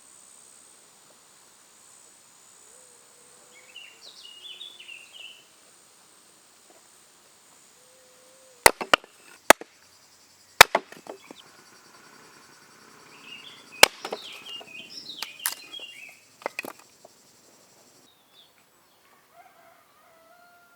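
Birds chirping in short bursts over a steady high-pitched whine, with a handful of sharp knocks, like chopping, about halfway through.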